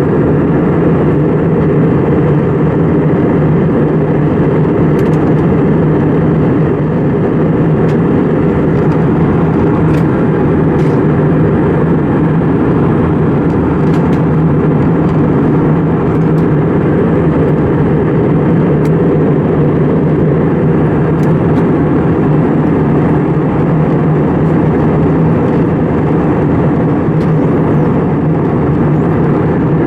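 Steady jet drone of an Airbus A320 heard inside the passenger cabin: a loud, even rumble with a constant low hum, unchanging throughout.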